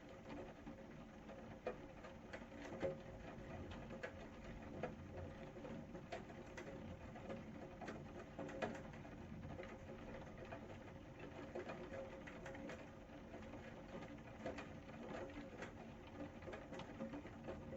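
Rain falling: a faint steady hiss with many separate drops tapping and clicking at irregular moments.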